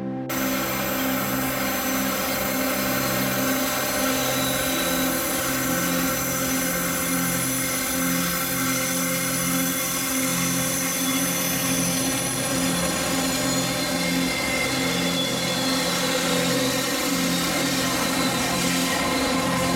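A train running, heard as a steady, loud rushing noise that starts abruptly just after the start, with background music going on underneath.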